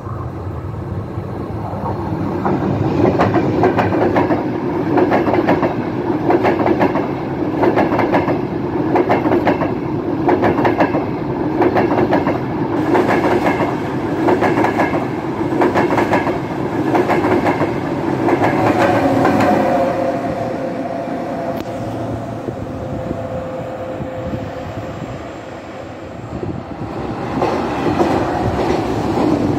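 ETR 500 Frecciarossa electric high-speed train running past: a rhythmic clatter of wheels over the rail joints, about once a second. About two-thirds of the way through, a steady tone sounds briefly as the train draws away and fades. Near the end, the running sound of another train rises.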